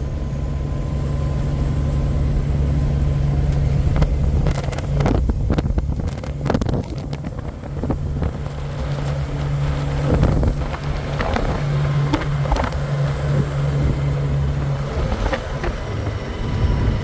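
Cab interior of a 1990 Kenworth K100E cabover truck under way: the diesel engine runs with a steady low drone, and scattered knocks and rattles come through, mostly in a cluster a few seconds in.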